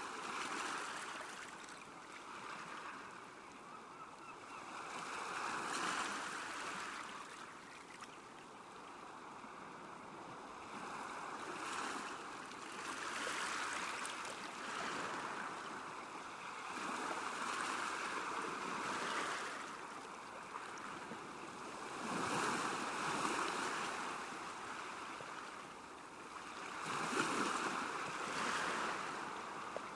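Small waves washing against a lake shore, the water rising and falling in soft surges every few seconds.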